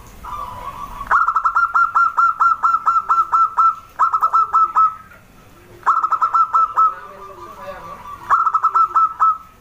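Zebra dove (perkutut) calling in four bursts of rapid, clipped repeated notes, with softer coos between them.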